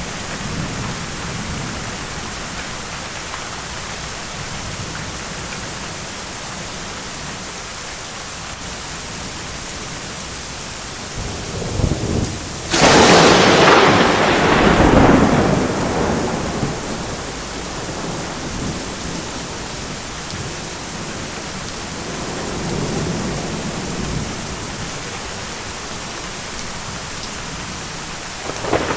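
Steady rain falling, with a thunderclap about halfway through: a short low rumble, then a sharp loud crack that fades into rolling thunder over a few seconds. A fainter distant rumble follows later.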